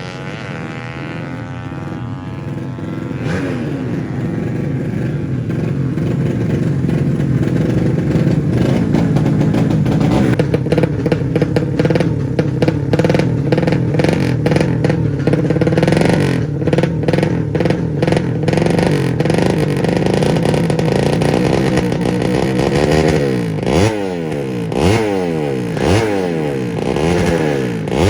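Drag-racing underbone motorcycles with 200cc engines: engine pitch climbs as they accelerate, then runs loud and hard through the middle. Near the end come several sharp throttle blips, each revving up and dropping back.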